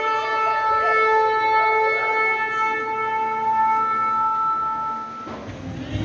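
A shofar sounding one long, steady held blast that stops shortly before the end.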